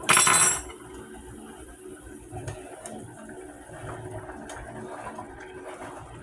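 A brief loud splash as yam is dropped into a saucepan of water cooking on medium-high heat, followed by the pot's low, steady bubbling with a few faint clicks.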